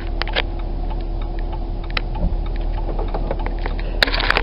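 Minivan engine idling: a steady hum and whine with a light, irregular ticking, and a few sharper clicks near the end.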